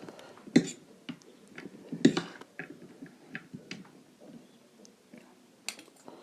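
Close-miked chewing of a big momo dumpling: irregular wet mouth clicks and smacks, the loudest about half a second and two seconds in.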